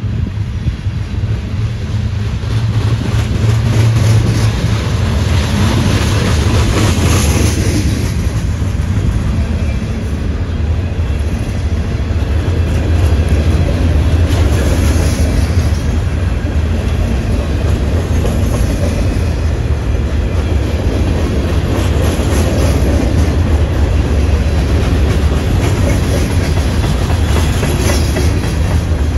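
Freight cars of a long mixed train rolling past close by: a steady low rumble with the clatter of steel wheels on the rails.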